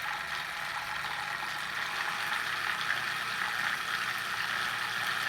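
Vortex generator running with its spinner whirling water in a beaker: a steady whir and swirl that grows gradually louder as the speed is turned up.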